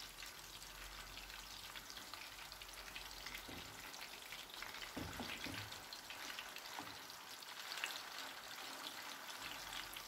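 Chicken seekh kebabs shallow-frying in hot oil in a pan: a steady sizzle full of fine crackles, with a few light knocks as a spatula turns them.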